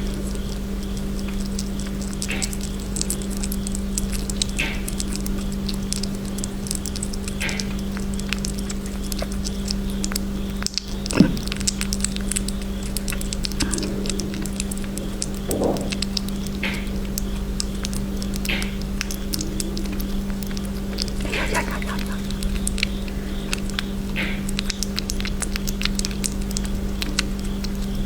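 Sugar glider chewing a snack: a dense run of tiny clicks and crunches, with short high chirps every couple of seconds, over a steady electrical hum. A single sharp thump about eleven seconds in.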